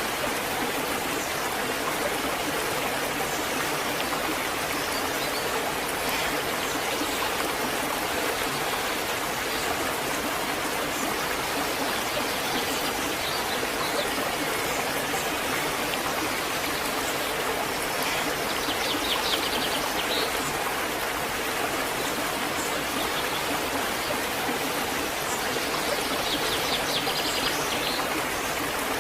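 Waterfall rushing steadily. A few brief bird chirps come in about two-thirds of the way through and again near the end.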